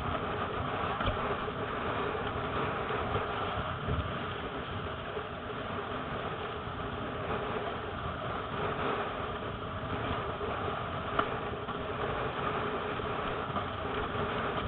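Gusty wind buffeting the microphone with water rushing past a windsurf board, a steady rumbling noise with a few small knocks.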